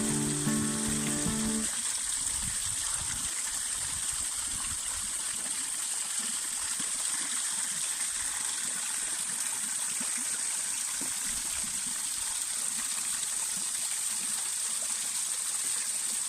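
Small man-made waterfall splashing and gushing steadily. Music plays over it for the first couple of seconds, then stops.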